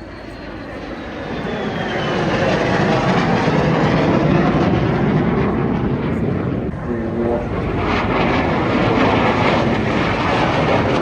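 MiG-17 jet fighter's turbojet engine on a display pass. The roar builds over the first couple of seconds, with a high whine falling in pitch, then stays loud and rough.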